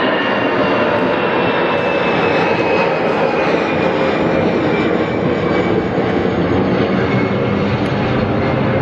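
Airbus A319 jet engines at takeoff thrust, a loud steady roar with a high whine that slowly falls in pitch.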